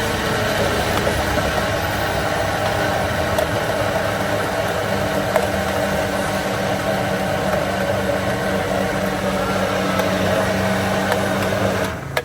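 Electric blender running steadily while blending a smoothie, its motor holding one even pitch, then switching off near the end.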